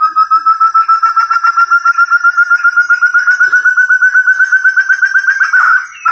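Forest partridge (puyuh hutan, 'burung terung') calling, as used for a bird lure: a long, fast run of whistled notes, about ten a second, slowly rising in pitch and ending in a couple of rougher notes.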